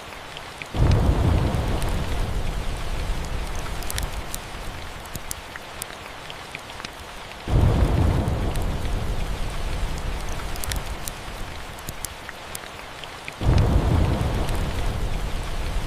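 Steady rain with three rolls of thunder, about a second in, seven and a half seconds in and thirteen and a half seconds in. Each starts suddenly, deep and loud, and rumbles off over a few seconds.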